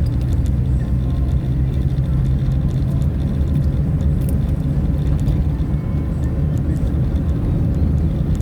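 A vehicle driving on the road: a steady low engine drone mixed with road noise, its pitch holding level through the first few seconds and then weakening.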